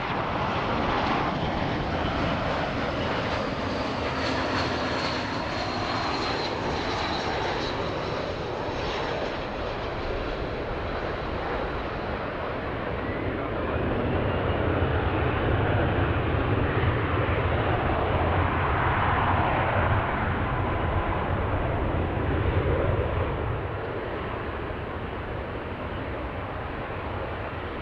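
Airplane engines running as a plane passes: a steady rush with a high whine that falls slowly over the first several seconds, then a deep rumble that swells to its loudest about halfway through and eases over the last few seconds.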